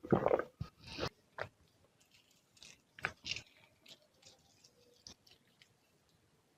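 A person chewing a mouthful of fish curry and rice, with wet smacking mouth noises, loudest in the first second, then softer scattered smacks and clicks.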